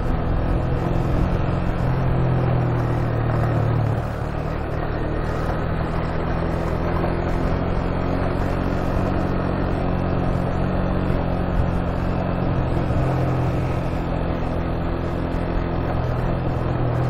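Motorcycle engine running steadily with road and wind noise while riding, easing slightly about four seconds in.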